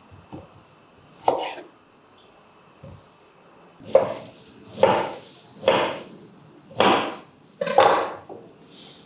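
Kitchen knife cutting vegetables on a cutting board: about eight separate cuts at an uneven pace, two faint ones early and the rest closer together in the second half.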